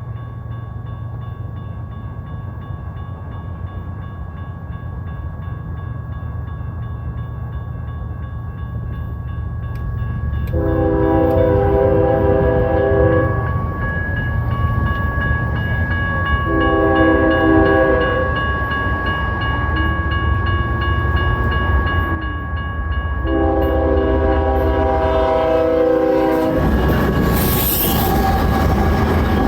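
BNSF freight locomotive's multi-chime air horn sounding three long blasts several seconds apart, over the steady low rumble of the approaching train. Near the end, a loud rush of locomotive engine and wheel noise takes over as the train arrives.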